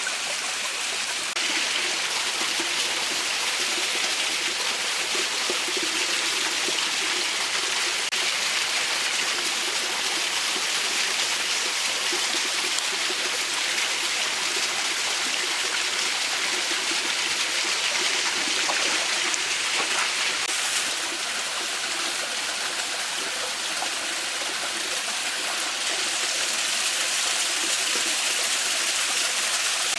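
A mountain stream running steadily over rocks, a constant rush of water. It gets louder about a second and a half in, drops a little around twenty-one seconds and rises again near twenty-six.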